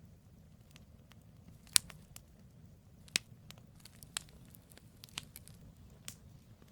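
Firewood burning in a campfire: scattered sharp crackles and pops, the loudest about two seconds in, over a faint low rumble.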